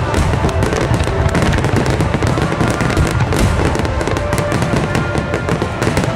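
A dense, continuous barrage of fireworks: many rapid crackling bangs over a deep rolling rumble of shell bursts, with music playing underneath.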